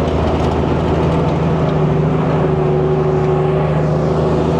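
World War II army DUKW amphibious truck's GMC straight-six engine running steadily under way, heard from aboard with a deep, even hum.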